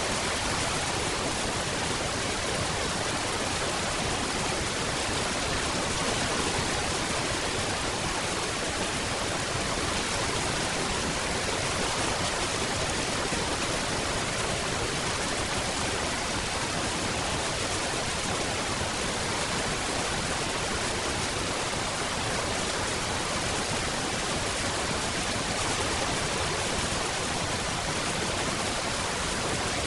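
Steady rain falling as an even, unbroken hiss, with no single drops or thunder standing out.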